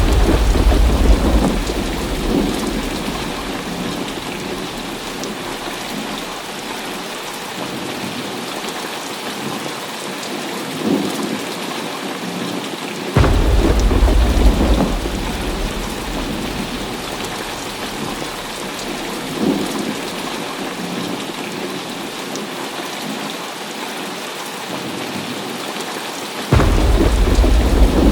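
Heavy rain falling steadily, with thunder breaking three times: a sudden crack and deep rumble at the start, another about halfway through, and a third near the end. Each rumble rolls on for a couple of seconds.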